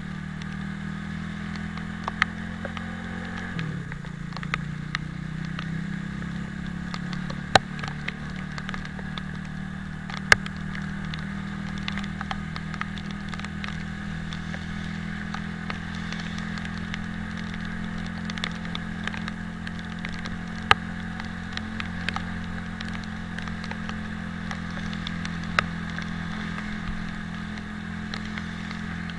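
Italika 250Z motorcycle engine running steadily. Its pitch drops once about three to four seconds in, with scattered sharp ticks over the top.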